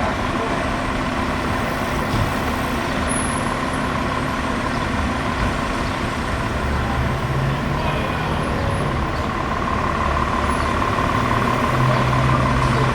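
Fire truck's diesel engine running steadily. Its low note swells a couple of times and grows a little louder toward the end.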